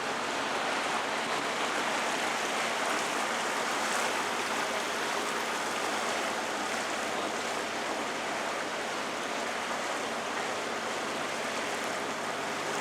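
Steady rushing of a canal tour boat under way: water washing past the hull along with the boat's motor.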